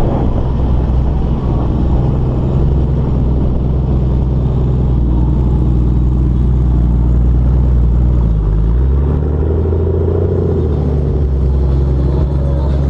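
Motorstar Cafe400's 400cc single-cylinder engine running under way at a steady pitch. About eight and a half seconds in, its pitch briefly dips and then climbs higher.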